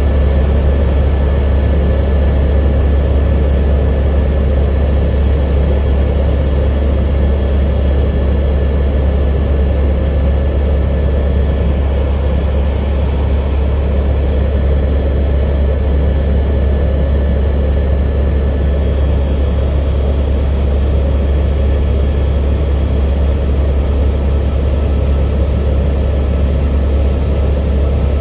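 Helicopter in flight heard from inside the cabin: a loud, steady low drone from the rotor and engine, with a faint steady high whine above it.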